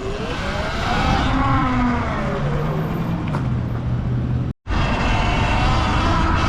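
Electric dirt bike being ridden, with heavy wind noise on the microphone. The motor's whine rises and then falls in pitch as the rider speeds up and eases off. The audio cuts out briefly about four and a half seconds in.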